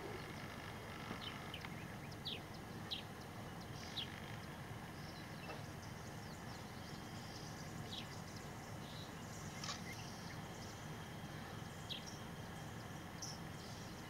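Short, high bird chirps, one every second or two, over a steady low hush of the bush.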